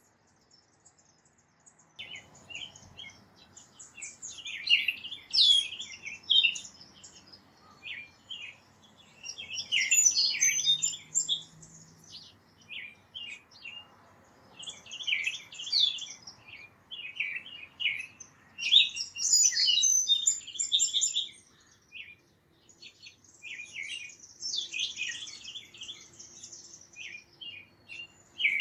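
Small songbirds chirping and twittering in a busy, overlapping chorus of short, quick calls. It starts about two seconds in, after near silence.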